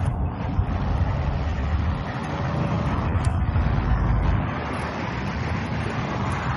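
Car engines running with a steady low rumble and traffic noise.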